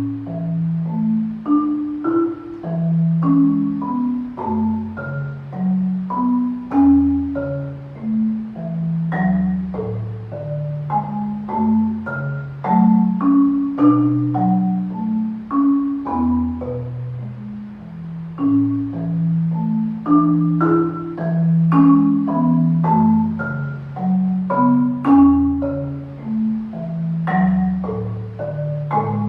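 Solo marimba playing a modern concert piece: held low notes in the bass under quicker struck notes ringing higher up.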